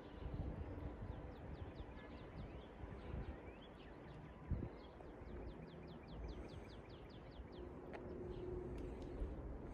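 Outdoor ambience with a low, uneven rumble, over which a small bird sings two rapid trills of quick high notes, about a second in and again from about six seconds. One soft thump comes near the middle.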